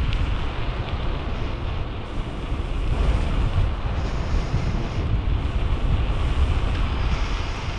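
Wind buffeting the camera's microphone on a bicycle moving at about 20 km/h, a steady low rumbling rush.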